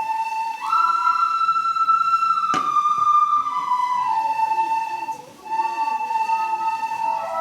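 A group of children's recorders playing a slow melody in unison, several slightly mismatched instruments on each long held note; the tune steps up about a second in and comes back down around four seconds. A single knock sounds near the middle.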